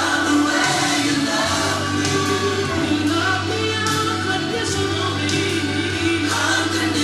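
Live gospel music: singing over a band with a steady low bass.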